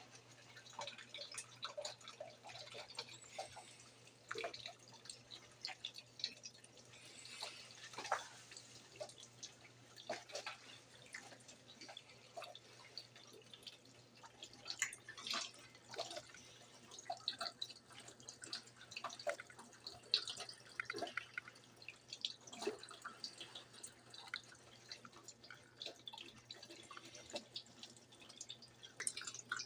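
Brastemp BWG11 washing machine with water splashing and dripping irregularly inside it, over a steady low hum.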